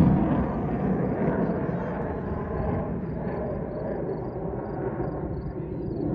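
Aircraft engine noise at an airshow, a noisy rumble that dies away after a pass and builds again near the end.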